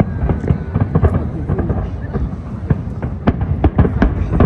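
Fireworks display: repeated sharp bangs from bursting shells over a continuous low rumble of booms, with crowd voices underneath.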